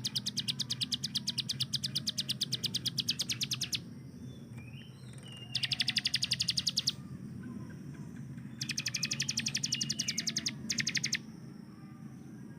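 Bar-winged Prinia (ciblek gunung) singing its rapid-fire rattling trills, the machine-gun-like 'tembakan' bursts: a long burst lasting over three seconds, then shorter ones about halfway through and near the end, with brief rising chirps in the gaps.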